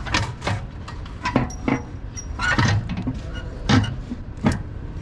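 Hand tools clinking and knocking on metal engine parts, about seven sharp irregular strikes over a low steady hum.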